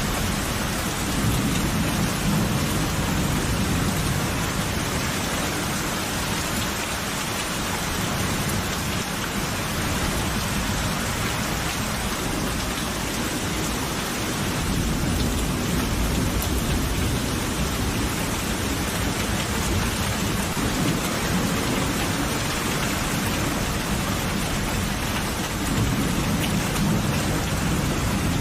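Steady heavy rain with rolling thunder: low rumbles swell a few times, about a second in, around the middle and near the end.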